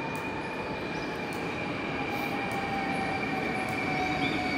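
NS double-deck electric train rolling slowly into the station: a rumble of wheels on rail under a high, steady squealing whine that drops slightly in pitch as it slows, growing a little louder as the carriages pass close.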